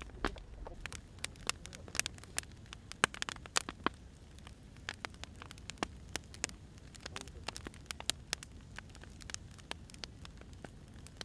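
Wood fire burning, crackling with irregular sharp pops of varying loudness over a steady low rumble.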